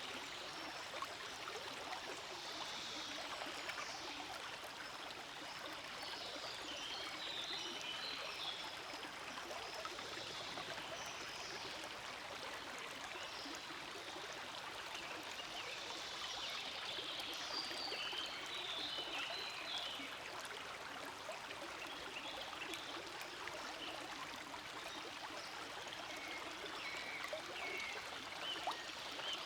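Forest stream flowing steadily, a constant rush of water with brighter trickling spots that come and go.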